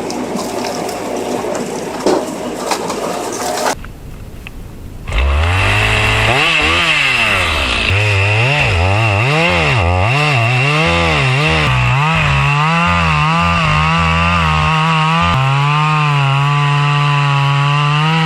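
Two-stroke chainsaw coming in about five seconds in, its engine revving up and down over and over, then held at a steady high speed with a small step in pitch near the end. Before it, a rough noisy machine sound stops suddenly at about four seconds.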